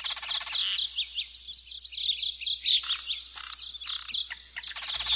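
A flock of songbirds chirping and twittering together, many quick high chirps overlapping, with short rapid trills near the start and near the end.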